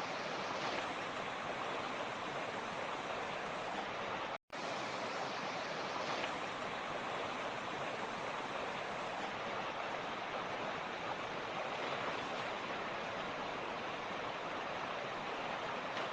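Mountain creek rushing steadily, an even, unbroken water noise, interrupted by a split-second dropout to silence about four seconds in.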